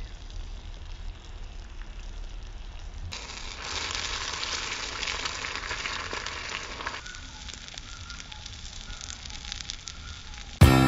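Food sizzling on a miniature griddle over a small wood fire, with the fire crackling; the sizzle is louder between about three and seven seconds. Near the end a loud guitar chord is strummed and rings on.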